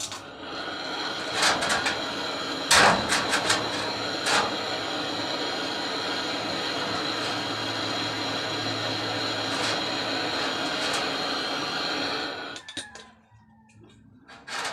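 A small electric motor runs steadily for about twelve seconds with a constant whine, then stops. Several sharp clicks and knocks come in the first few seconds.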